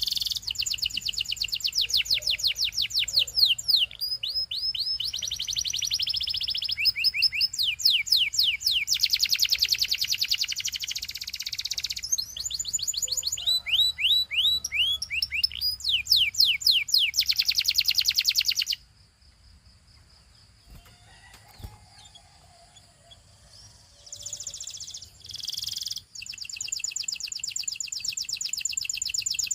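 Canary singing in long fast trills and rolls of rapidly repeated sweeping notes, switching between tours. It falls silent for about five seconds past the middle, then gives a short phrase and resumes trilling near the end.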